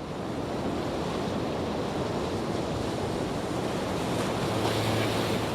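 Waves washing on a shore, a steady rush with wind on the microphone. A low steady hum comes in about four seconds in.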